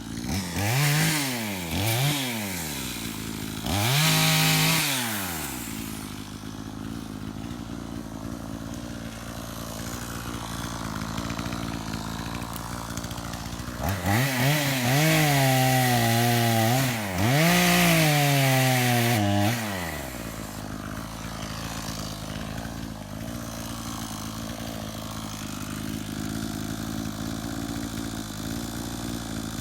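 Gas chainsaw revving up and down in short bursts near the start, then again for about six seconds in the middle, idling steadily between the revs and afterwards.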